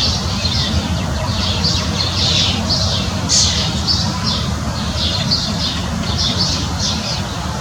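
Backyard songbirds chirping in quick, overlapping short calls, several a second, over a steady low rumble.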